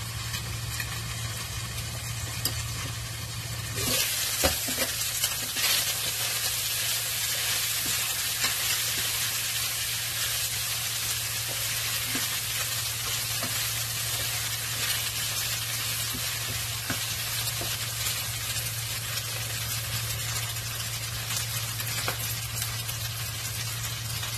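Chicken pieces frying in hot oil in a pan, the sizzling starting suddenly and loud about four seconds in and then running on steadily, with a few clacks of the pieces and utensil early in the frying. A steady low hum runs underneath.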